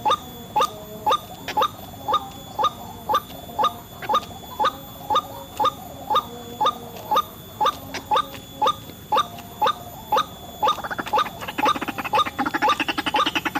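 White-breasted waterhen calling: a short rising note repeated steadily about twice a second. Near the end a denser, rapid chattering joins in.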